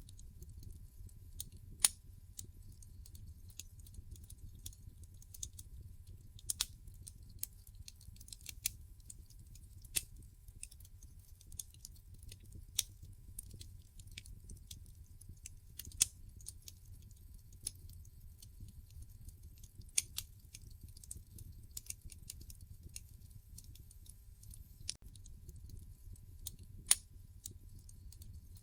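Wood fire in a fireplace crackling: an irregular patter of small snaps over a low steady rumble of the flames, with a few sharp, louder pops from the burning logs.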